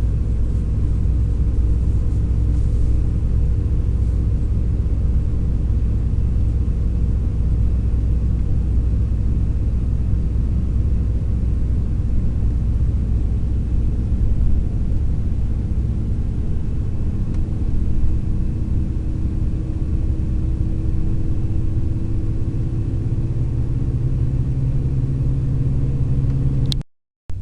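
Inside a long-distance sleeper coach under way: the steady low rumble of engine and road, with the engine's hum rising slightly near the end. The sound cuts out briefly just before the end.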